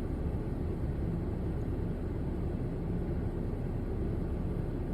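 Steady low rumble of an idling car, heard from inside its cabin.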